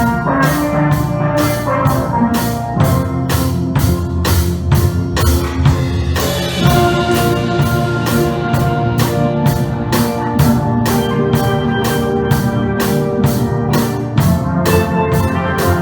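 Steel pan band playing a tune, with a drum kit keeping a steady beat under the ringing pan notes.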